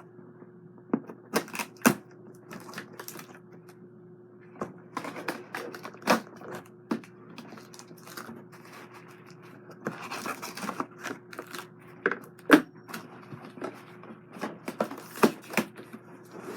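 Packaging being handled while parts are lifted out of a box: irregular clicks, taps and knocks, with bursts of rustling, over a faint steady hum.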